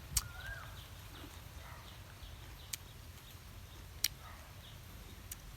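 Small birds chirping, with four sharp clicks spaced about a second and a half apart over a low background rumble.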